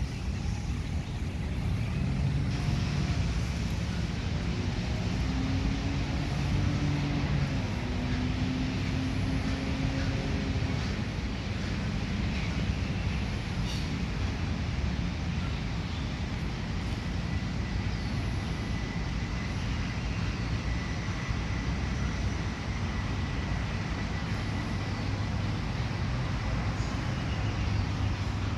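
Steady rumble of road traffic, with a passing vehicle engine faintly audible in the middle.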